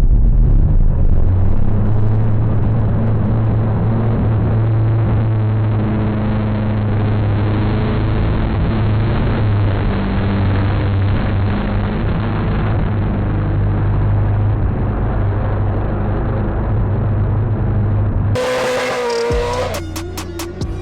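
An engine running at a fairly steady speed, sounding muffled, with music underneath; near the end the sound opens up and a brighter engine note rises and falls.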